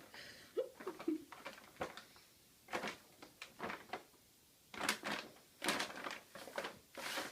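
A bag of catnip rustling and crinkling in irregular bursts as a cat paws and bites at it.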